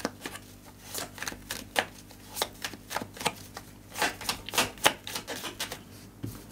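A deck of tarot cards being shuffled by hand: light, sharp card clicks and snaps at an irregular few per second.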